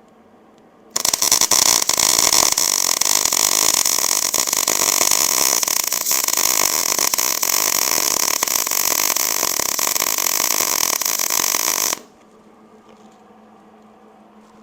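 Wire-feed welding arc from a Hobart Handler 130 MIG welder: a steady crackling sizzle that starts sharply about a second in, runs for about eleven seconds as one weld bead, and cuts off suddenly when the trigger is released.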